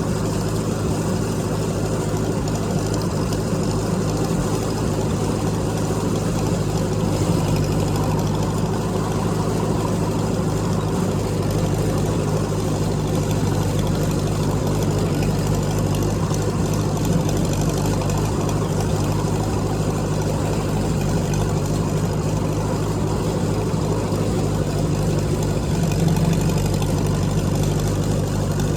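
Tractor engine running at a steady speed, a constant low hum with no change in revs.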